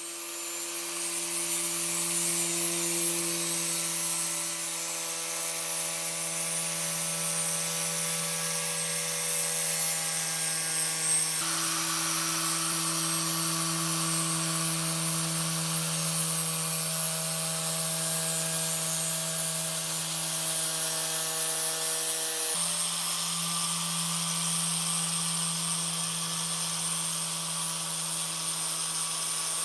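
Electric power tool motor running steadily, a hum with a high hiss over it. The hum shifts abruptly twice, about 11 and 22 seconds in.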